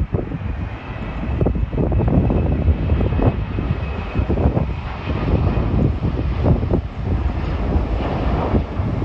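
Jet airliner's engines running loud and steady, a deep rumble with a faint high whine over it for a few seconds.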